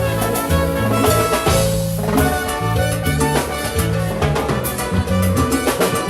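Salsa band playing live, an instrumental stretch with a moving bass line under steady, busy percussion.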